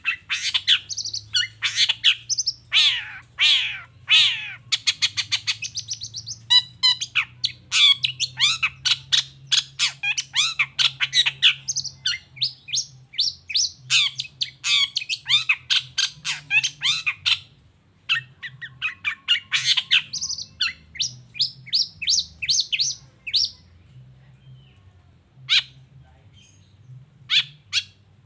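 Long-tailed shrike (cendet) singing a fast, varied run of sharp, chattering notes, with a brief break about two-thirds of the way through and only scattered single notes near the end.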